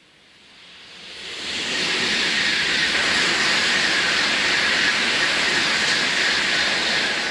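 Tokaido Shinkansen high-speed train rushing past: a rushing hiss builds quickly over about two seconds, holds loud and steady, and begins to fade near the end.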